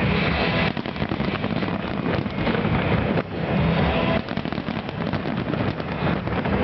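Fireworks exploding in rapid, overlapping bangs and crackles, with no break between bursts.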